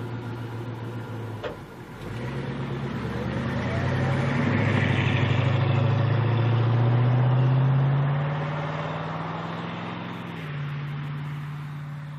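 Muscle car engine idling with a sharp click about one and a half seconds in. The engine then pulls away, its pitch climbing steadily for several seconds before easing off, and it steps up again near the end.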